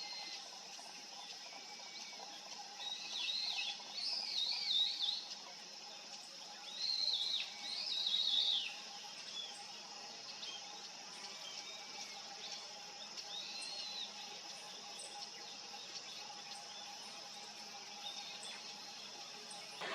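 Small wild songbirds chirping in two busy bursts, about three and seven seconds in, with a few scattered single notes later, over a faint steady hum and background hiss.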